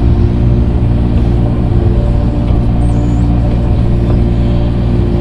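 Engine of the heavy equipment grading the dirt, running steadily at a constant pitch.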